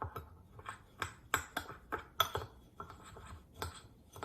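A spoon clinking and scraping against a bowl as a crumbly topping of oats, brown sugar, spices and melted butter is stirred together, with irregular knocks several times a second.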